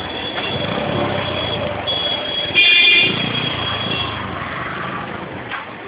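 Road traffic with engines running and a vehicle horn honking briefly about two and a half seconds in.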